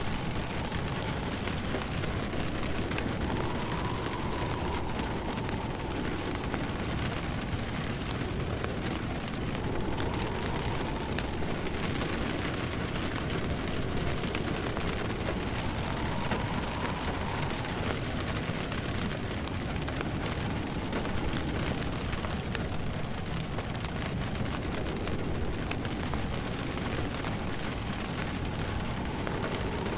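Steady rain falling on a surface mixed with a crackling wood fire in a fireplace, with a faint whistle that swells and fades every six seconds or so.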